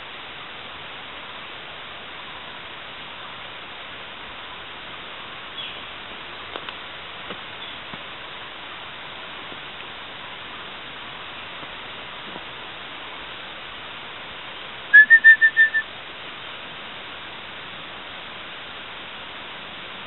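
Steady hiss of forest background with a few faint ticks, broken about three quarters of the way through by a bird's quick call of about six whistled notes on one pitch, the first sliding up.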